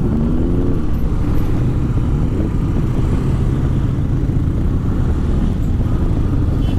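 Motorcycle engine running steadily at low speed, with road and wind noise on the rider's on-bike camera.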